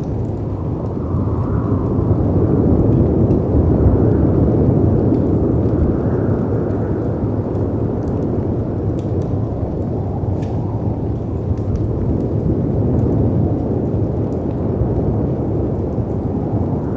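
Wind and sea waves making a steady low rumble that swells and eases every few seconds, loudest a few seconds in, with sparse faint crackles of a wood fire over it.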